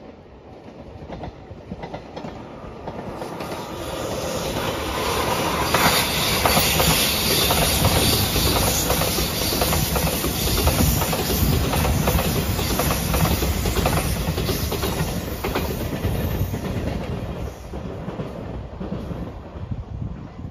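JR Shikoku 8000 series electric limited-express train passing at speed: it grows louder over the first few seconds, its wheels clatter rhythmically over the rail joints, and it fades away over the last few seconds.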